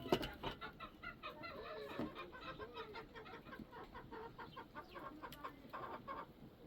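Chickens clucking: a run of short, quick clucks several times a second.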